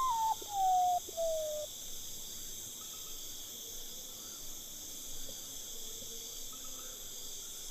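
Common potoo singing: about four whistled notes in the first two seconds, each lower in pitch than the last. A steady insect chorus goes on underneath.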